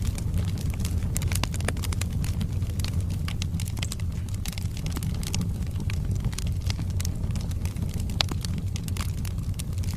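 Wood fire burning in a fireplace: a steady low rumble of the flames with frequent sharp crackles and pops from the burning logs, one louder pop about eight seconds in.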